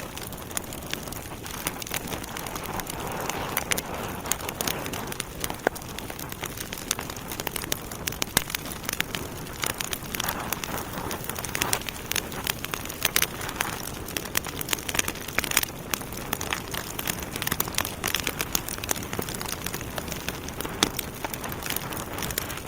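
Logs burning in a fireplace, crackling: many sharp, irregular pops and snaps over a steady hiss of the fire.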